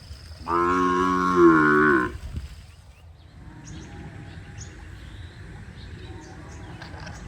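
A cow mooing once, a loud call about a second and a half long whose pitch sags slightly toward the end. After it, a quieter steady background with faint, short high chirps.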